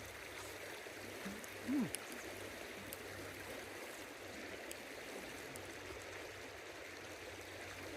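A river running steadily, a constant rushing of flowing water. About a second and a half in comes one short vocal sound that slides down in pitch.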